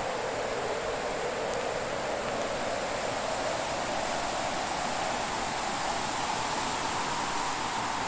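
Wood fire ambience: a steady rushing hiss with a whooshing band that slowly rises and falls, and a few faint crackles of burning wood.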